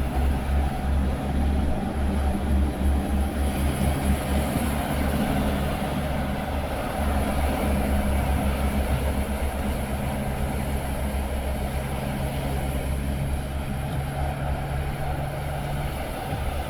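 Car driving at road speed, heard from inside: a steady low road rumble with a faint engine hum under an even hiss of tyre and road noise.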